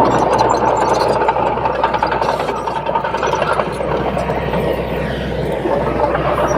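Komatsu D21P bulldozer running steadily, its diesel engine and machinery noise joined by a steady high whine.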